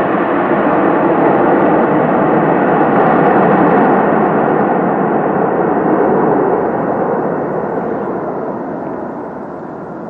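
Airplane engine noise, a steady rushing drone. It is loudest about three to four seconds in, then fades and grows duller over the last few seconds as the plane draws away.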